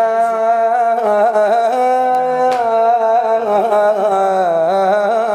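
A solo man's voice chanting in Iraqi nasheed style, holding long notes that bend and waver with ornaments, without instruments.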